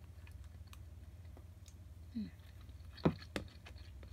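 Quiet eating sounds: scattered soft clicks from a mouth chewing food, with a brief murmur about two seconds in and two sharper clicks a moment apart about three seconds in, over a low steady hum.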